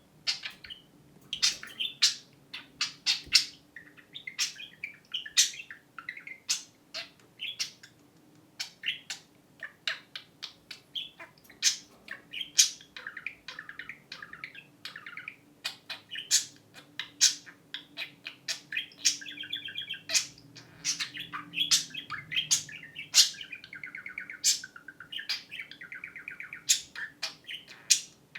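Two pet budgerigars chattering back and forth in a dense run of sharp chirps and warbles, with one budgie mimicking a phone ringing about halfway through.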